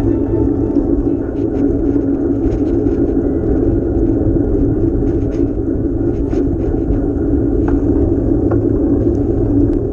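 Steady rumble of wind and road noise from a bicycle on the move, with faint scattered ticks.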